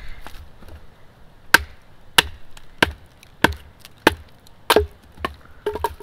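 Batoning wood: a wooden baton knocks the spine of a small Scandi-ground fixed-blade bushcraft knife, driving it through a piece of wood to split it. It is a steady series of sharp wooden knocks, about one every half to two-thirds of a second, starting about a second and a half in.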